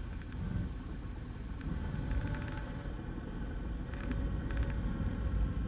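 Cessna 172 engine running at low power with a steady low rumble, a few faint clicks in between, on touchdown or the landing roll.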